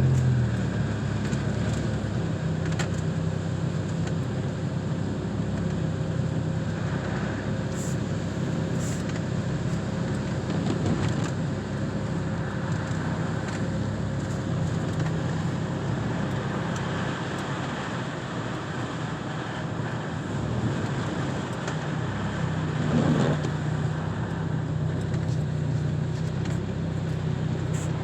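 A car being driven, with a steady low engine hum under a constant rush of road noise. The engine note shifts slightly about a second in and again near the end.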